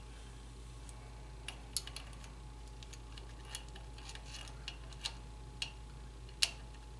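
Light metallic clicks and taps of hand tools and small parts against a small engine, as someone works by hand around its ignition parts, about eight scattered clicks with the sharpest a couple of seconds in and again near the end, over a faint steady hum.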